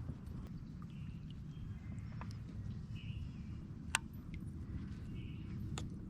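Outdoor ambience: a steady low rumble with a few scattered sharp ticks, the loudest about four seconds in, and a faint short call repeating about every two seconds.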